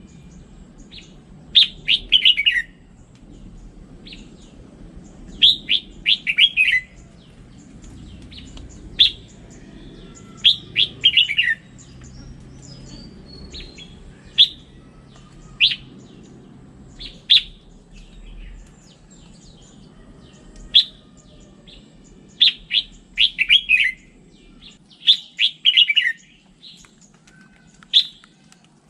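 Red-whiskered bulbul singing: short, bright phrases of a few quick notes falling in pitch, repeated every few seconds, with single sharp notes between them.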